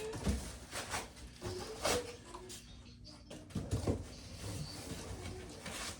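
Cardboard shipping box being handled and opened: irregular knocks, scrapes and rustles of cardboard and packing.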